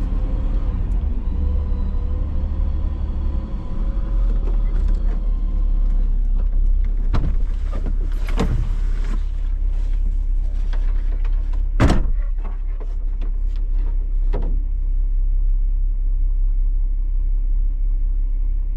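Recovery vehicle's engine running with a steady low rumble while a stuck truck is pulled out of the snow on a strap. A whining tone fades out about six seconds in. Four sharp clunks follow, the loudest about twelve seconds in.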